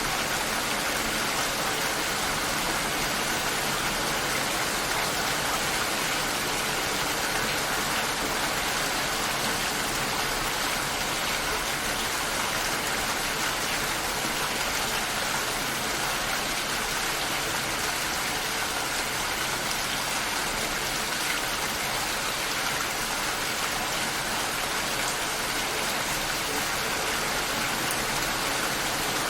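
Steady rain shower: an even, unbroken hiss of falling rain.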